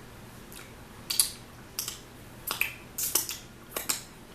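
Fingers being licked and sucked clean, a series of short wet smacking clicks, about seven or eight in quick succession, close to the microphone.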